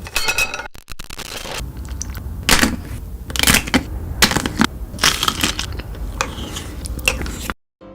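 Close-up crunching and cracking of chocolate snacks being bitten and chewed, with a sharp crunch every second or so over a low rumble. It cuts off abruptly near the end.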